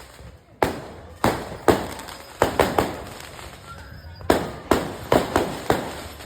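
Fireworks going off: about a dozen sharp bangs at irregular intervals, some in quick clusters of two or three, each trailing off as it fades.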